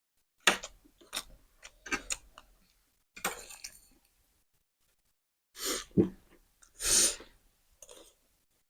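Mouth and breath sounds of people eating very spicy noodles: a string of short noisy bursts with pauses between, the loudest two a little past the middle.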